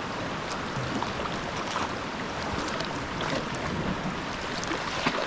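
Sea water lapping and splashing around a sea kayak, a steady wash with many small splashes and drips scattered through it.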